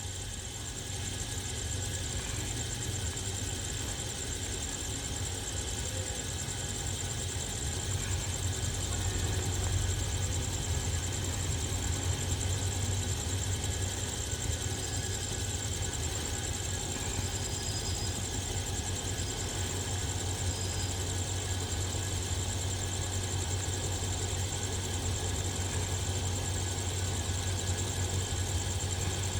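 Alsthom diesel-electric locomotive idling with a steady low engine hum.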